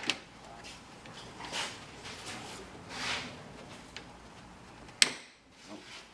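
Handling and rustling, then one sharp click about five seconds in, as the socket end of a gas lift-support strut is pressed onto its ball stud.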